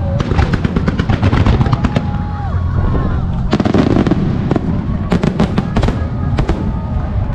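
Fireworks display: rapid runs of crackling bursts over a continuous low booming of shell explosions, with a few whistles gliding in pitch. The crackling thins out for a moment a little past two seconds in, then comes back in fresh volleys.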